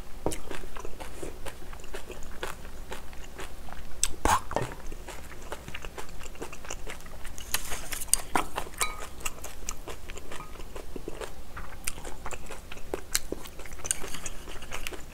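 Close-miked eating sounds: chewing and crunching of curry rice and cabbage kimchi, mixed with scattered clicks of a metal spoon and chopsticks against the bowl and a glass container.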